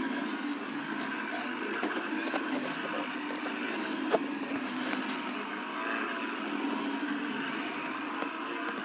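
Shark vacuum cleaner running steadily, with a sharp click about four seconds in.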